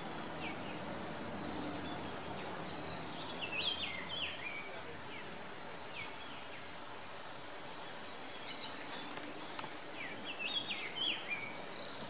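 Bird calls over steady outdoor background noise: a phrase of several quick, down-slurred notes about three seconds in, repeated about ten seconds in.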